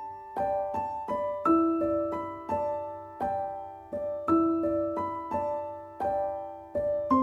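Background music: a gentle piano melody of struck notes and chords, each note ringing and fading.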